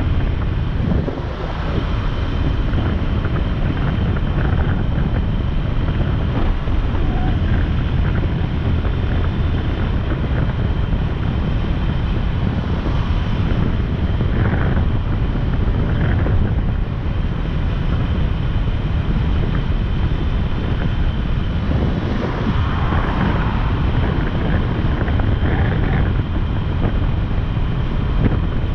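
Motorcycle underway at road speed: steady wind rushing over the microphone, with engine and road noise underneath.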